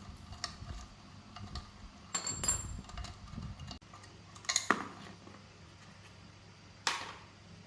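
Metal tools and parts clinking and rattling as they are handled, with a cluster of rattles about two seconds in and two sharper knocks later on.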